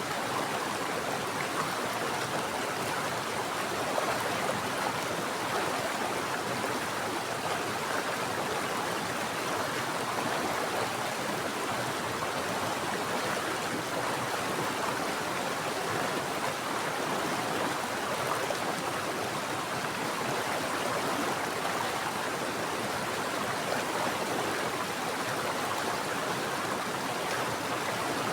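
Mountain stream water flowing steadily over rocks, a constant rushing wash of noise.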